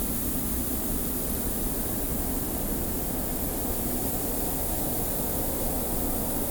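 Steady wind with a hiss of blowing sand: a low, constant rumble under a high, airy hiss, with no change in level.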